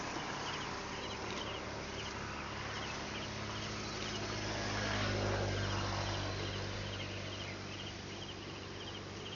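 Insects chirping in short trills about twice a second, over a low steady hum that swells about halfway through, like a vehicle passing.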